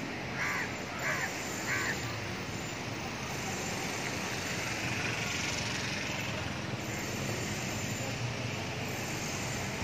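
A bird calls three times in quick succession about half a second in, over steady background noise.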